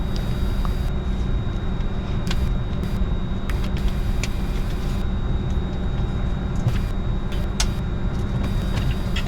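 Steady low rumble of a Bombardier Challenger 605's cockpit on the ground before engine start, with a faint high steady whine and a few light clicks scattered through it.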